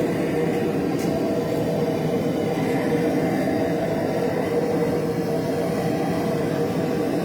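Steady drone of forge-shop machinery running without a break, with a faint click about a second in.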